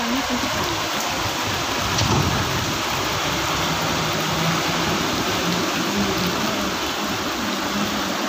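Steady heavy rain on a flooded street, with vehicles driving through the floodwater: a low engine hum and the wash of tyres pushing through the water.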